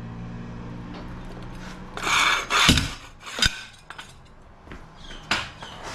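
Tire-changing tools and a motorcycle wheel and tire being handled: a scraping rush about two seconds in, then a heavy thump, a sharp knock, and a lighter click near the end.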